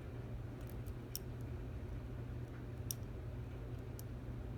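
Faint, sharp metallic clicks from a lock pick and tension wrench working the pins of a Stanley 24/7 padlock, a handful of irregular ticks seconds apart, over a steady low hum.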